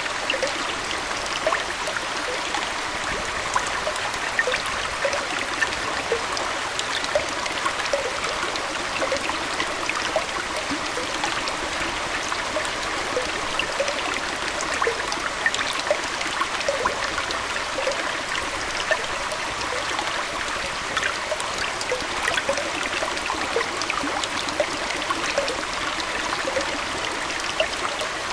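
Aquarium water trickling and flowing steadily, with many small plops scattered throughout.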